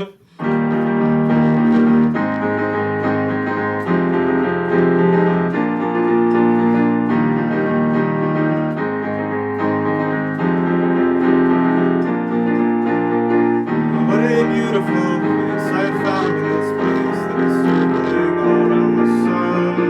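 Keyboard playing the intro of a slow song, sustained chords changing about every two seconds. From about fourteen seconds in, a wavering higher part joins the chords.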